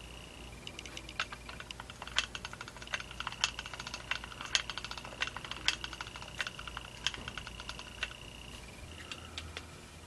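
Hand-cranked valve lapping tool turning an engine valve against its seat: rapid, irregular small clicks and ticks from the tool's gearing and the valve, with a faint thin high tone running under much of it.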